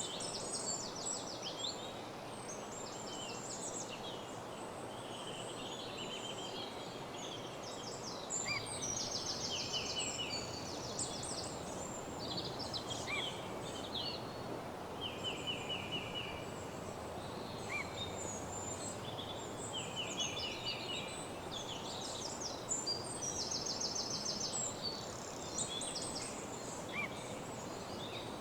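Woodland morning chorus of several songbirds, with many short, rapid trills overlapping throughout, over a steady background hiss.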